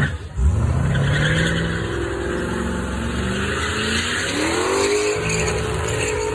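1973 Mercury Cougar's V8 revving hard through a burnout, rear tyres spinning in their own smoke. After a brief dip at the start the revs climb and hold high, then climb again about four seconds in and stay at a steady high pitch.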